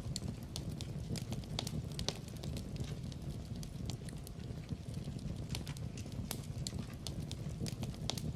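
Wood fire crackling, with irregular sharp pops and snaps, several a second, over a steady low rumble of the flames.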